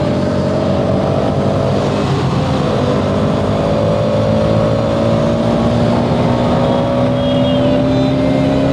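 Motorcycle engine running steadily under way, its pitch rising slowly as the bike gathers speed.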